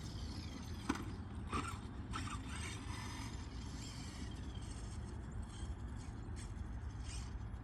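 Electric drivetrain of a Losi Promoto RC motorcycle, with a faint, wavering high whine from its motor and gears. A few sharp clicks come about one to two and a half seconds in, over a steady low rumble.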